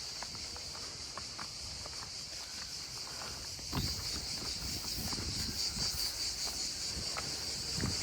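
A steady, high-pitched chorus of insects chirring, with footsteps and small clicks underneath.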